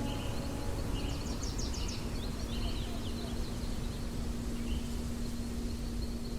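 Outdoor ambience: a steady low rumble and hum, with short high bird calls repeating and a quick chattering trill about a second in.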